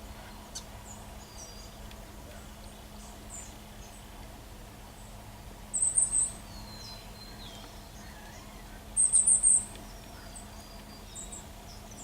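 Small birds calling: two loud bursts of rapid, very high-pitched chirps, one about halfway through and another a few seconds later, with fainter short whistled notes and sliding calls in between.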